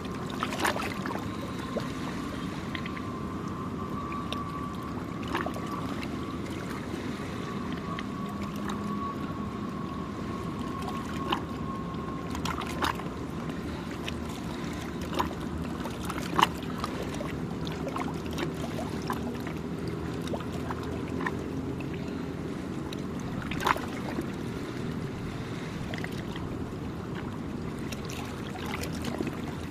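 Gentle waves lapping at the shore, with scattered small splashes and clicks, over a steady low motor hum. A faint thin whine sounds through the first twelve seconds or so, then stops.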